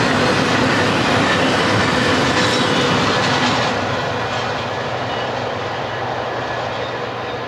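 Intermodal freight cars loaded with truck trailers rolling past, their steel wheels running on the rails in a steady rushing noise. About three and a half seconds in the sound drops as the end of the train goes by, then keeps fading as it moves away.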